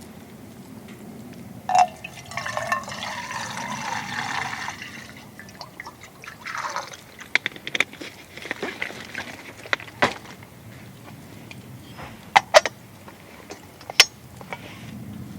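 Liquid poured into a container for about two seconds, followed by scattered sharp clicks and knocks, the loudest a close pair and then a single one near the end.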